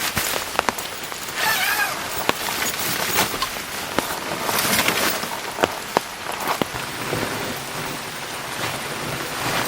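Heavy rain pouring steadily, with many sharp individual drop hits tapping at irregular moments.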